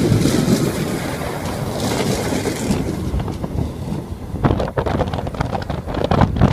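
Class 170 Turbostar diesel multiple unit pulling away, its engine and wheel noise fading as it draws off down the line. From about four seconds in, wind buffets the microphone.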